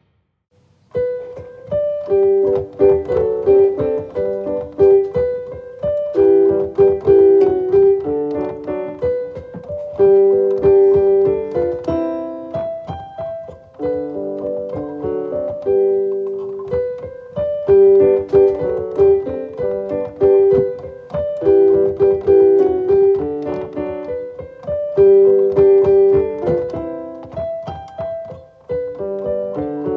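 Background piano music: a gentle melody of single notes and chords, starting about a second in after a brief silence.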